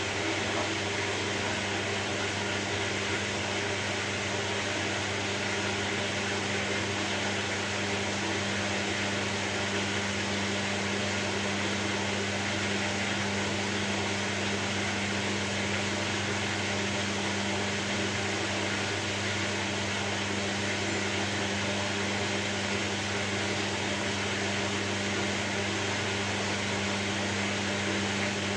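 Steady white noise: an even, unbroken hiss over a constant low motor hum, with no change in level.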